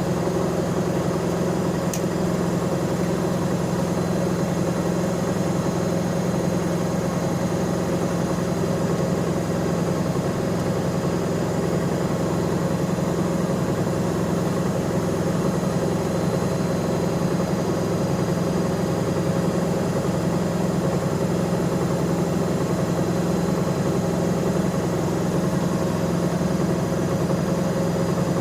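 Bauknecht Super Eco 6413 front-loading washing machine spinning at a steady high speed: a constant motor hum and drum whir with a steady low tone and no change in pitch.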